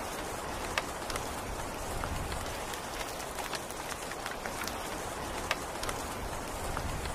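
Steady rain falling, an even hiss with many sharp drop taps scattered through it.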